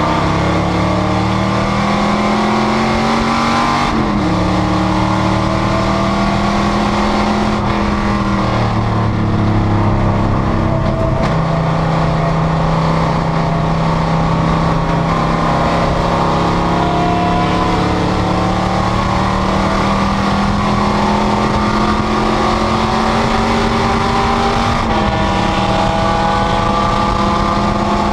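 Panoz GTS race car engine under hard acceleration, its note climbing slowly and dropping sharply at each gear change, about 4, 8, 11 and 25 seconds in. From about 11 seconds in there is a long, steady pull in one gear.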